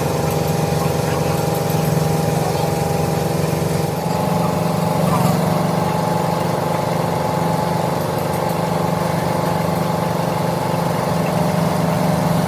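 Machine-shop machinery running with a steady drone, a strong low hum with several steady higher tones; the pitch shifts slightly about four seconds in.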